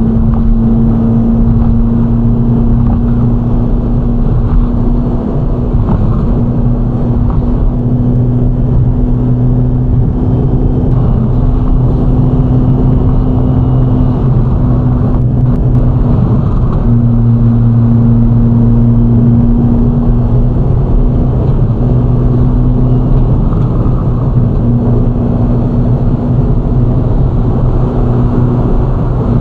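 Ferrari Roma's twin-turbocharged V8 engine running at a steady cruise, its drone holding an even pitch.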